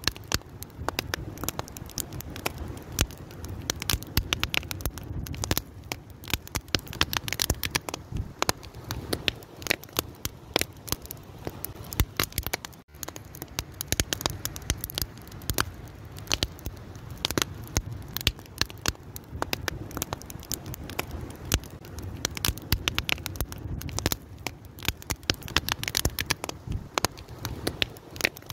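Fire crackling, with frequent sharp pops over a low steady rumble.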